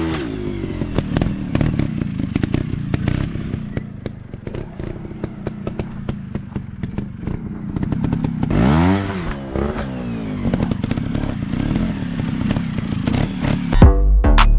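Off-road dirt bike engine running, revving up and back down about nine seconds in, with many sharp clatters and knocks throughout. Music starts near the end.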